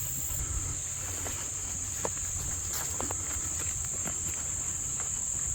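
Steady high-pitched chorus of insects chirring without a break, with a low rumble underneath and a few scattered faint clicks.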